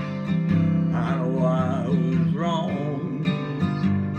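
Music: an acoustic guitar strumming a slow country-blues song, with a held, wavering sung note in the middle.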